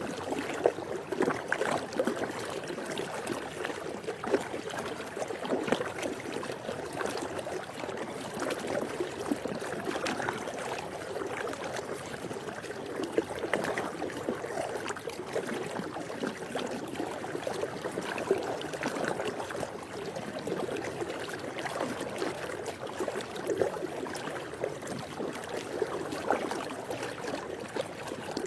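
Swimming pool water lapping and splashing: a steady, unbroken wash of many small irregular splashes and trickles.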